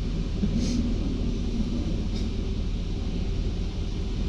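Automatic car wash machinery running, heard from inside the car: a steady low rumble with a faint hum, and two short faint hisses about a second and two seconds in. The high-pressure spray nozzles have not yet come on.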